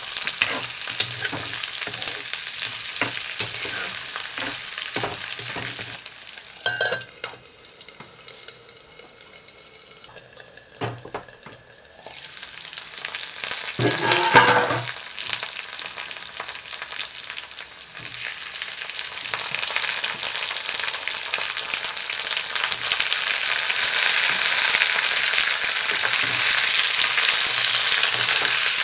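Potatoes, garlic and dried red chillies frying in oil in a black karahi, with a metal spatula scraping and knocking against the pan. The sizzle dies down for several seconds, a clatter comes about halfway through, and then the frying grows steadily louder with chopped tomatoes in the pan.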